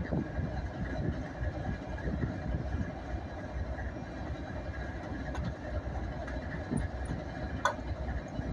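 Low, steady rumble of a coal train's diesel locomotives, with one sharp click about three quarters of the way through.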